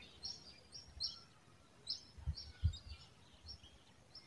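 Small birds chirping faintly in the background, short high chirps about twice a second, with two soft low thumps a little past the middle.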